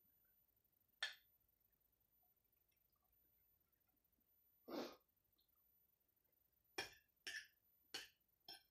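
Mouth sounds of eating boiled potatoes: short wet smacks and clicks while chewing, one about a second in, a longer breathy one near the middle, and a quick run of four near the end, with quiet in between.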